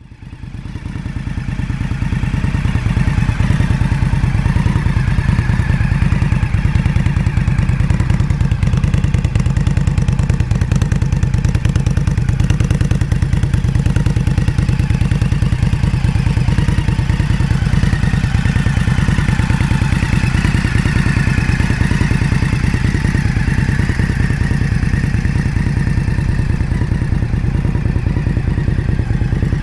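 Indian Scout Rogue's V-twin engine idling steadily through an aftermarket Jekill & Hyde exhaust, with a deep, even pulse. It swells up over the first couple of seconds, then holds.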